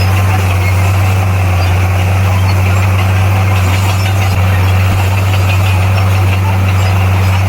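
Bulldozer's diesel engine running at a steady pace, a constant low drone with no change in speed.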